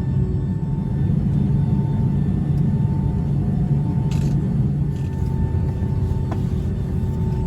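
Steady low rumble of cabin noise inside a Boeing 757-200 airliner with its Pratt & Whitney PW2037 engines running, with a couple of light clicks a few seconds in.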